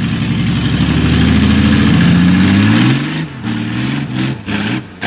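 A vehicle engine revving hard and steadily, its pitch climbing slowly for about three seconds and then falling away. After that it is revved in several short bursts.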